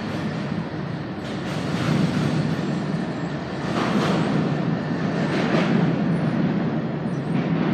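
Diesel locomotives of an Iowa Interstate freight train running as the train rolls past: a steady low rumble that swells and eases several times.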